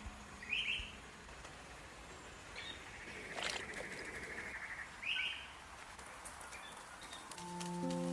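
Wild songbirds calling in woodland: three short chirps a couple of seconds apart, with a fast rattling trill between the second and third. Soft music comes in near the end.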